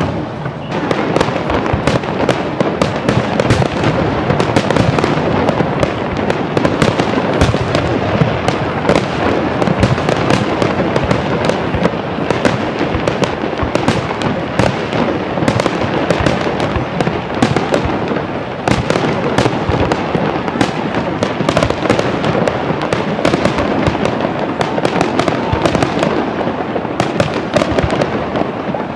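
Aerial fireworks going off in a dense, continuous run of bangs and crackles, loud throughout.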